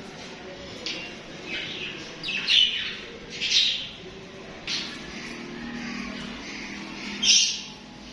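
Budgerigars chirping and chattering: short bright chirps come every second or so, the loudest about two and a half, three and a half and seven seconds in, with softer warbling chatter in between.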